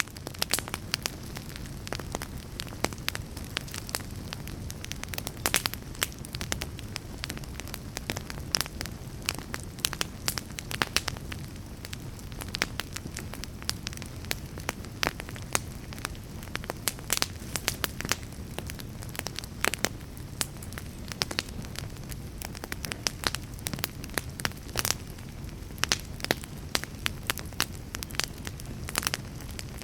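Fire crackling: irregular sharp pops and snaps, several a second, over a steady low rumble and hiss.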